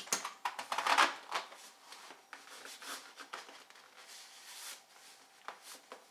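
A plastic arm rest cover being slipped onto a car door panel by hand: rustling and clicking of plastic, loudest in the first second and a half, then scattered light clicks.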